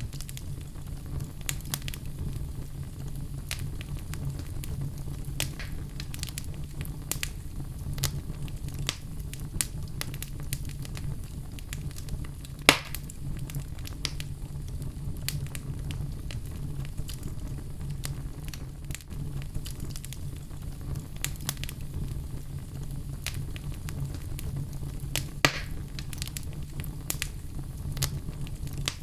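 Wood fire burning in a fireplace: a steady low rumble of flames with irregular crackles throughout, and two loud pops, one about halfway through and one near the end.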